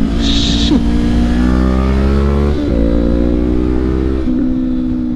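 Honda CB500X parallel-twin motorcycle engine accelerating, its pitch climbing and then dropping sharply at upshifts about two and a half and four seconds in.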